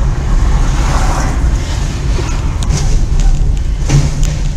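Car engine and road rumble with wind noise, as recorded by a dashcam. It holds steady, with a few faint clicks and a short knock about four seconds in.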